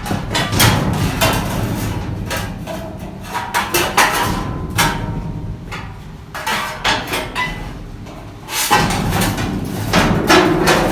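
Loud, repeated metal banging and clattering over a steady low running hum, which cuts out briefly near the end and then comes back.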